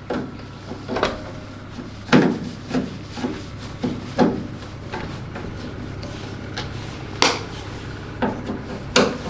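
Irregular knocks, clunks and rubbing, about a dozen in all, as hard parts are handled and set down, over a steady low hum.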